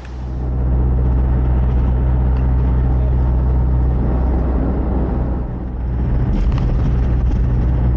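Steady low engine and road drone heard from inside a moving vehicle, dipping briefly about five and a half seconds in, with a few faint rattling ticks near the end.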